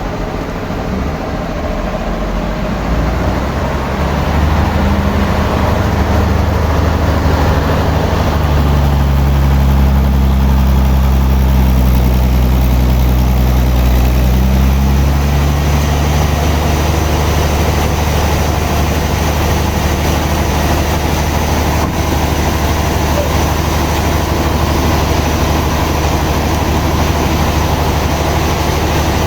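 A heavy engine running steadily, growing louder a few seconds in, with its pitch shifting twice in the first half.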